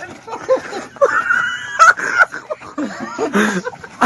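A dog whining in one long high note starting about a second in, followed by people's voices.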